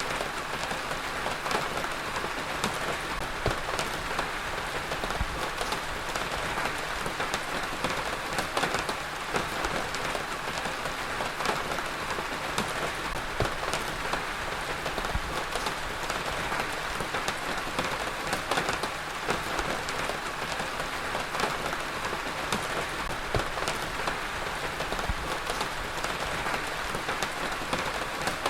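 Heavy rain falling steadily on a hard surface, a constant dense hiss with many individual drops ticking through it.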